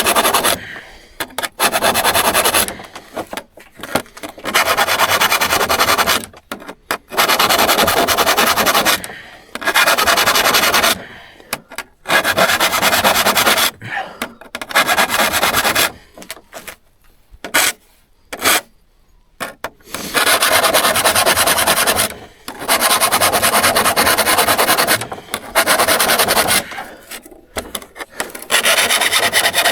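Steel hand saw being worked by hand with an abrasive tool: runs of rapid scraping strokes, each lasting one to three seconds with short pauses between, and a longer lull a little past the middle.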